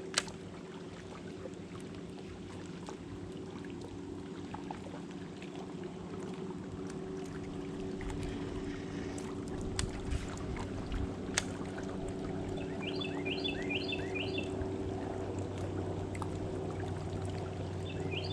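Water trickling and dripping around a kayak over a steady low motor hum, with a few small clicks. A bird sings a short run of four quick descending chirps twice, about two-thirds of the way through and again at the end.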